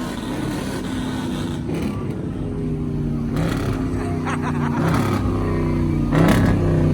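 Motor vehicle engine running at a steady pitch, with a few short sharp noises over it about halfway through and near the end.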